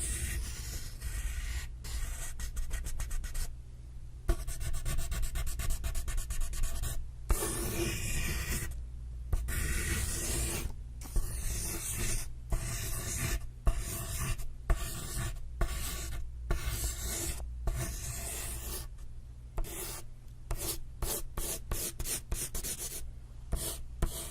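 Giraffe sound recording: a long run of short, scratchy rasping sounds in irregular bursts, over a steady low hum.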